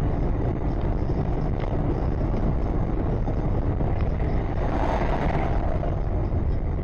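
Steady rumble of a car driving, engine and road noise heard from inside the cabin, with no impact or crash.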